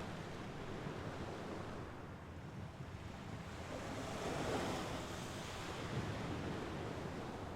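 Mediterranean Sea waves washing onto the shore, a steady surf hiss that swells as a wave breaks about halfway through, with light wind on the microphone.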